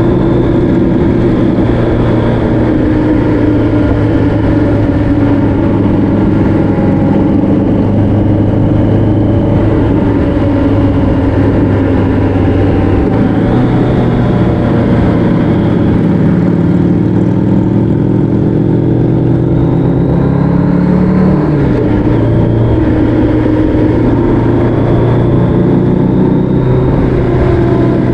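A road vehicle's engine running under way, heard from on board, its pitch rising and falling with the throttle, with a sharp drop in pitch about three quarters of the way through.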